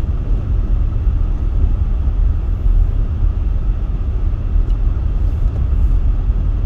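Steady low rumble of a vehicle being driven, heard from inside the cabin: engine and tyre noise.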